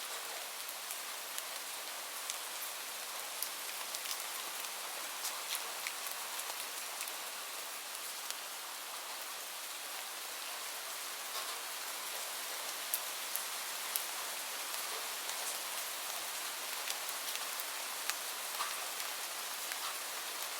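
Steady rain falling: an even hiss of rain with individual drops ticking sharply here and there.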